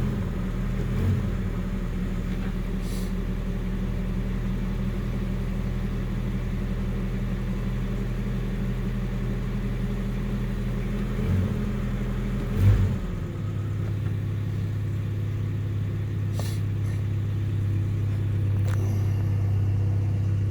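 Nissan 720 pickup's engine idling steadily as it warms up after a cold start, with a few short bumps. About two-thirds of the way through its note changes and then stays steady, a little louder toward the end.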